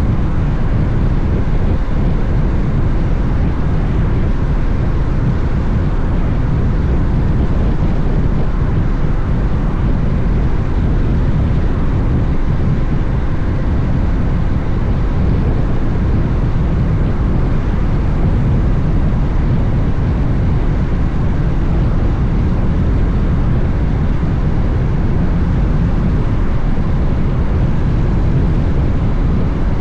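Steady rush of wind and road noise from a Honda X-ADV motorcycle riding at a constant speed, with the engine's running sound under the wind. The level stays even, with no gear changes or revving.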